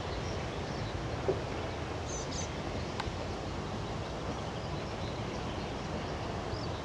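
Freight train rolling slowly away, a VL10U electric locomotive pushing at the rear: a steady low rumble of wheels on the rails. Small birds chirp briefly a few times over it.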